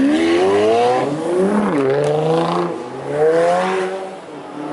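High-performance car engine accelerating hard, its pitch climbing about three times with a drop between each climb.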